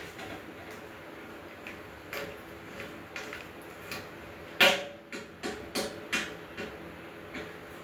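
Scattered clicks and knocks of grill parts being handled and fitted together during assembly, with one sharp knock about halfway through followed by a quick run of smaller knocks.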